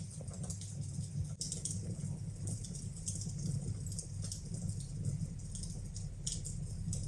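Fire burning in a fireplace: frequent small crackles and pops over a steady low rumble.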